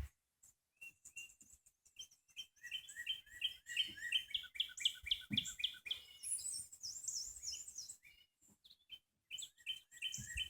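Songbirds chirping: quick runs of short repeated chirps, with a second, higher-pitched chirping joining in around the middle.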